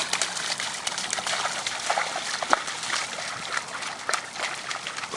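A small child's footsteps splashing through a shallow rain puddle: rapid, irregular splashes and sloshing water.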